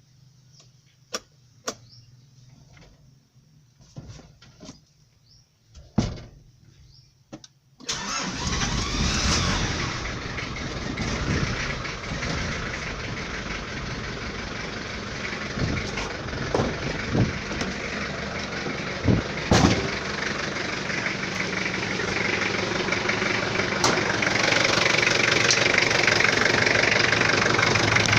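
A few sharp clicks and knocks, then about 8 seconds in the Nissan Big M's TD25 four-cylinder diesel engine starts and keeps running, growing steadily louder toward the end.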